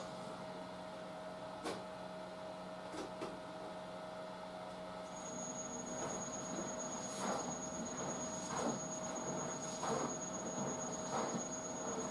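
Front-loading drum washing machine turning: a steady motor hum with a thin high whine, and from about five seconds in the load tumbling in the drum with a soft swish or knock roughly once a second.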